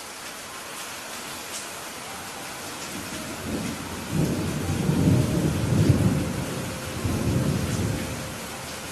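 Steady rain falling, with a low rolling rumble of thunder that builds about halfway through, peaks, and dies away near the end.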